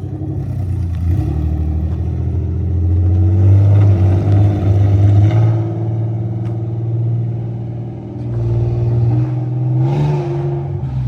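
Infiniti G37's swapped-in VR30DDTT twin-turbo V6 accelerating with no exhaust fitted. The engine note rises over the first few seconds, settles, eases off about eight seconds in, then climbs again near the end.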